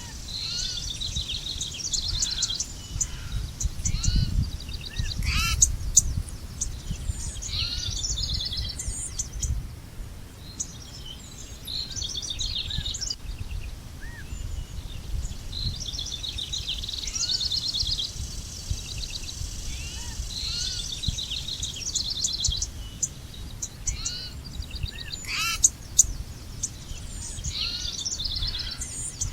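Several small birds calling and singing, with chirps, short trills and rising whistled notes overlapping, over a low steady rumble like wind on the microphone.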